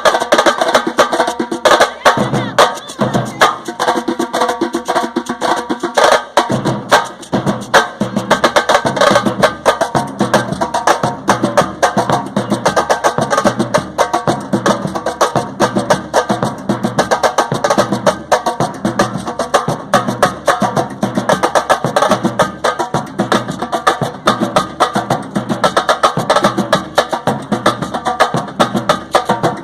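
Street percussion drums playing a fast, steady rhythm of sharp strokes, with a low drum pulse joining in about six seconds in.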